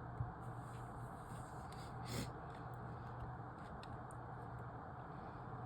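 A quiet, steady low hum with a few faint ticks, a sharper tick just after the start and a brief scratchy noise about two seconds in.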